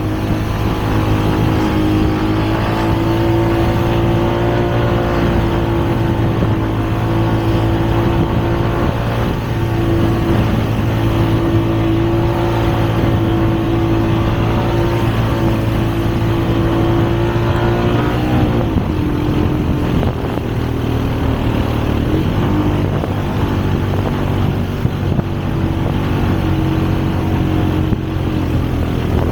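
Motor vehicle engine running at a steady speed, its note dipping and settling a little lower about 18 seconds in.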